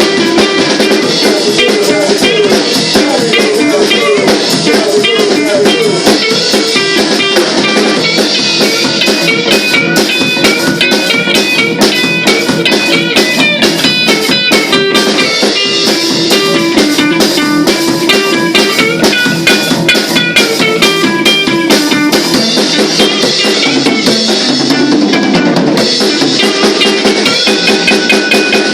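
Rock band practising an instrumental passage: guitar played over a drum kit, with no singing. Near the end, a low note slides down in pitch.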